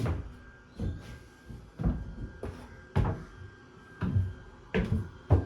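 A large drawer being worked in and out on its slides, knocking sharply about once a second; the fit is stiff because the surrounding framing isn't perfectly straight.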